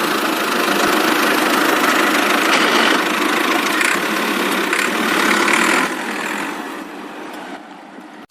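Engine running steadily, then fading down over the last two seconds.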